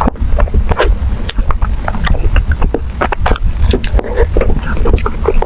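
Close-miked chewing and eating: a dense run of wet mouth clicks and smacks over a steady low rumble.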